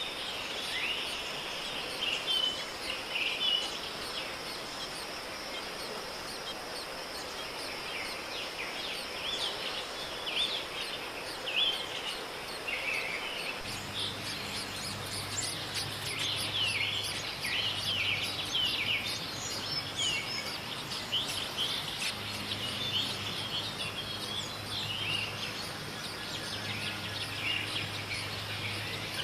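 Small birds chirping repeatedly in short, quick calls over steady outdoor background noise. From about halfway a low hum comes and goes.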